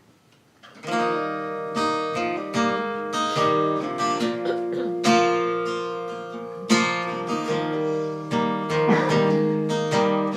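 Acoustic guitar playing a song's intro: a steady pattern of picked and strummed notes, beginning about a second in.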